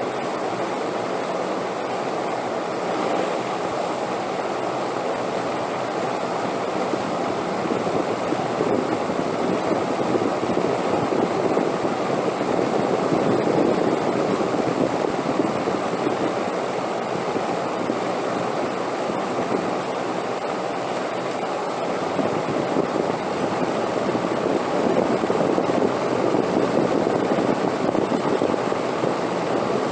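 Steady rushing wind noise, swelling a little around the middle and again near the end.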